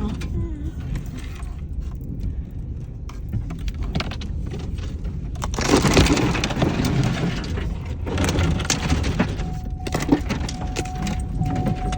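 Tree branches scratching and cracking along the sides and roof of a pickup truck as it drives under downed trees, heard from inside the cab over the low rumble of the moving truck. The crackling grows loud about six seconds in and again toward the end.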